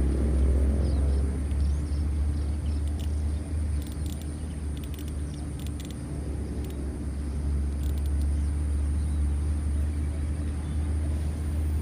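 Steady low rumble with a faint constant hum and a few light clicks.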